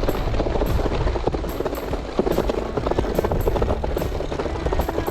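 Wind buffeting the microphone with a steady low rumble, and the bicycle rattling and knocking over a rough, bumpy track.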